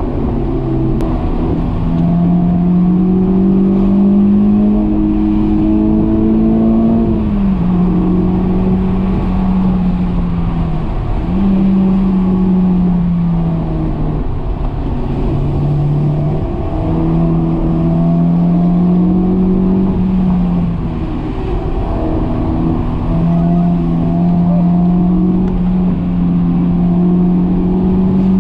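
Honda S2000's four-cylinder engine heard from inside the cabin under hard driving. Its note climbs slowly under throttle and drops back sharply several times with lifts and gear changes.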